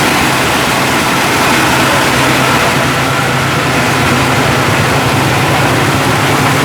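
Electric motor of a meatball grinding machine running steadily, a constant low hum with a mechanical rattle over it.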